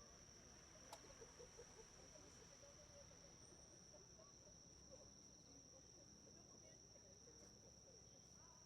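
Faint, steady high-pitched chirring of insects, one unbroken tone, with faint distant voices underneath and a single faint click about a second in.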